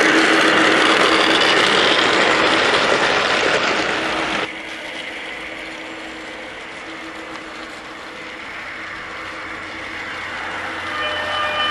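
Gauge 1 model Class 66 diesel locomotive running: the motor and gearing whirr along with wheel and track noise under the sound unit's steady diesel engine hum. It is loud for about the first four and a half seconds, drops suddenly, then slowly builds again near the end.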